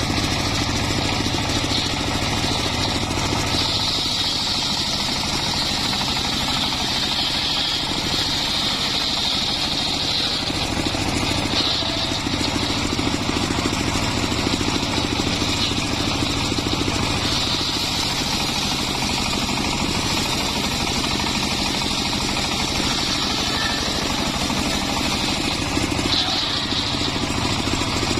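Homemade circular-saw sawmill running steadily under its engine, with a high whine that swells up and dies back twice in long stretches as the blade works through the log.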